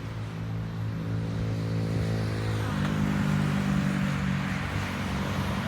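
Motor vehicle engine running steadily, its pitch stepping up once about three seconds in.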